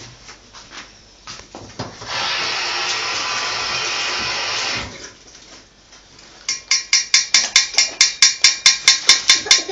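A hungry parrot screaming. It gives one long, noisy screech of about three seconds. After a short pause it starts a fast, even run of short repeated calls, about five a second, that carries on to the end.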